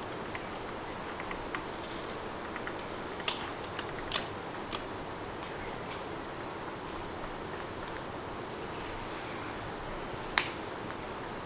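Steady rain with short, high bird chirps through the middle and scattered sharp clicks, the loudest one near the end.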